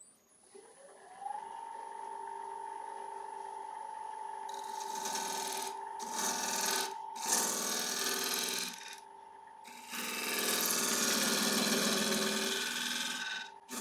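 Wood lathe motor spinning up with a rising whine that settles into a steady hum, then a turning tool cutting into a spinning ash bowl blank in four long passes with short pauses between, shaping the outside and underside.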